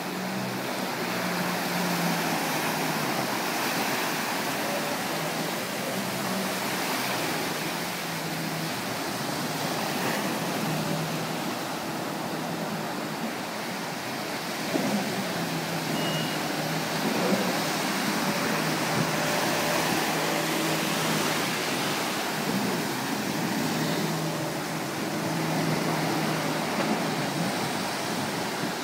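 Jet ski engine running and revving, its pitch rising and falling at times, over a steady wash of surf and wind.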